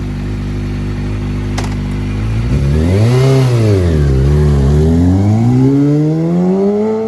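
Kawasaki ZX-6R 636 inline-four engine idling steadily, then revved: a quick rise and fall about three seconds in, then a slow climb in revs toward the end. A short click comes about one and a half seconds in.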